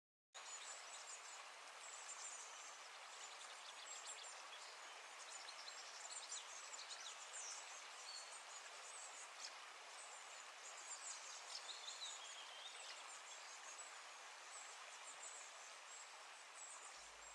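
Faint outdoor ambience: a steady soft hiss with many small bird chirps and a short falling trill.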